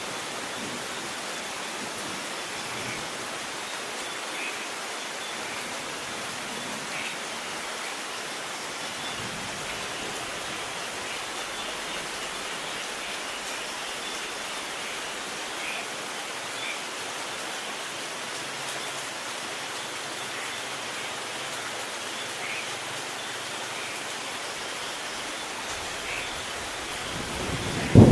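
Steady hiss of falling rain. Near the end a low rumble of thunder begins to build.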